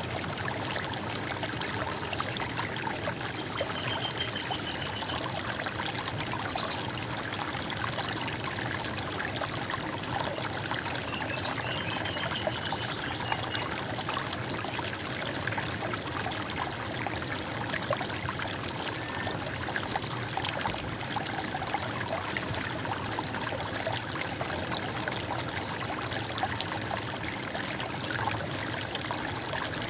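Stream water running and trickling steadily, with a few brief bird calls over it about four seconds in and again around twelve seconds.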